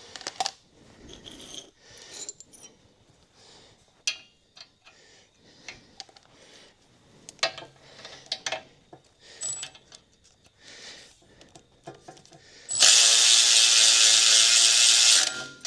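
Scattered clicks and clinks of a hand ratchet and tools working a suspension nut. Near the end a pneumatic tool runs loudly and steadily for about two and a half seconds, a hiss with a pitched hum, then stops.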